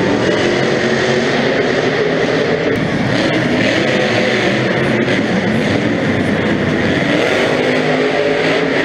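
Monster truck engines running loud and revving, their pitch wavering up and down.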